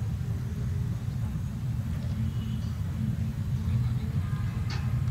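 Approaching diesel locomotive, its engine a steady low rumble. Near the end the first sharp clacks of the wheels over the rail joints begin.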